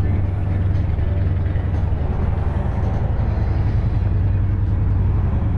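2014 Harley-Davidson Sportster Forty-Eight's 1200cc fuel-injected V-twin idling steadily through aftermarket chrome sweeper pipes, with a heavy breather intake.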